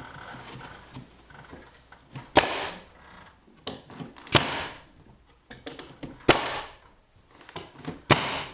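Nails being driven into tongue-and-groove pine boards: four sharp strikes about two seconds apart, each with a short ring, and a few faint clicks between.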